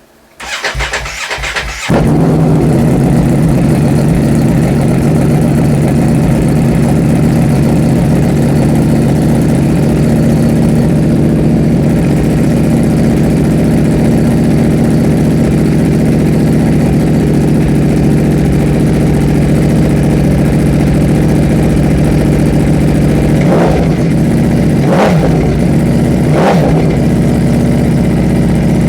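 Ducati Panigale V4 with an Arrow aftermarket exhaust being started: the starter cranks for about a second and a half, then the V4 engine catches and settles into a loud, steady idle. Near the end the throttle is blipped three times, each rev rising and falling quickly.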